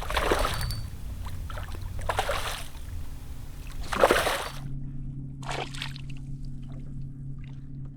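Water splashing and sloshing against a small boat in several short bursts, joined about halfway through by a steady low hum.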